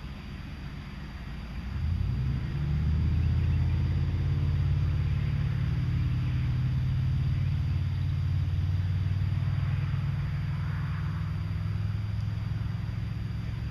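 An engine running at a steady pitch, coming up about two seconds in and holding steady to the end, with no gunshots.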